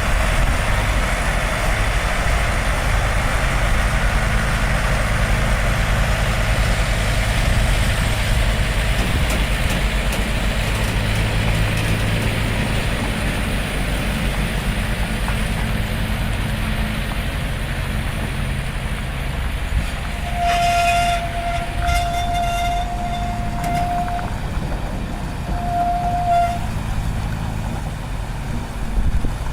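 Heavy truck's diesel engine running steadily with road noise, and an air horn sounding in a run of blasts about two-thirds through, then one shorter blast.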